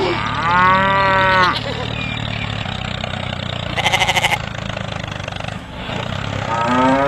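A cow mooing: one long call with a rise and fall in pitch, and a second call beginning near the end, over a steady low hum. Around four seconds in there is a short, rapid rattling burst.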